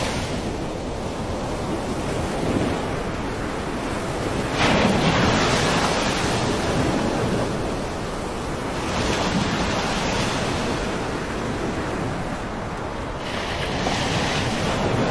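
Floodwater rushing: a loud, continuous water noise that swells about every four to five seconds.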